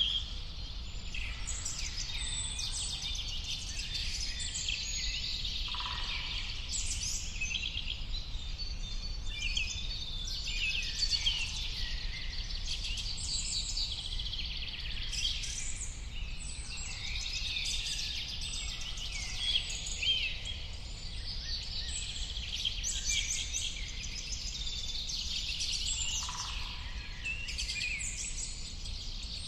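Many birds singing and chirping at once, a dense chorus of overlapping quick chirps and trills, over a steady low rumble.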